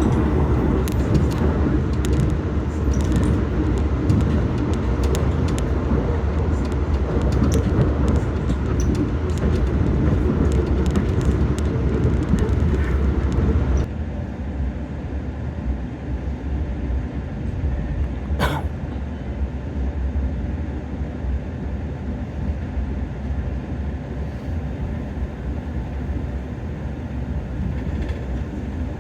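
Passenger train running, a steady rumble with fast clicking and rattling that drops suddenly to a quieter, smoother rumble about halfway through. A short rising squeal sounds a few seconds after the drop.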